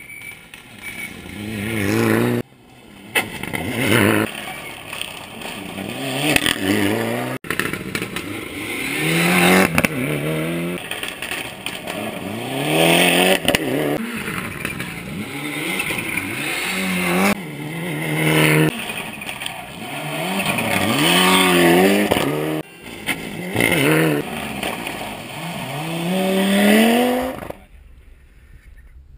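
Rally car engine driven hard, its revs climbing steeply over and over with quick drops between climbs as it shifts gear and lifts off. The engine sound cuts off suddenly near the end.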